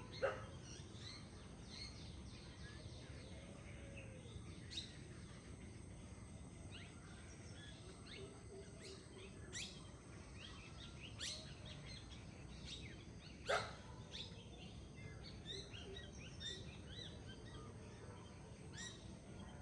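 A mixed chorus of forest birds: many short chirps and quick falling whistles, with two louder sharp downward-sweeping calls, one right at the start and one about two-thirds of the way through. A faint steady low rush sits underneath, fitting the flowing forest river.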